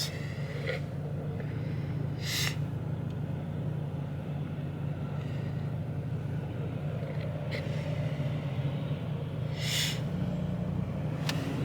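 Ford Mustang EcoBoost's turbocharged four-cylinder idling at a standstill, a steady low hum heard from inside the cabin. Two brief hisses come about two and a half and ten seconds in.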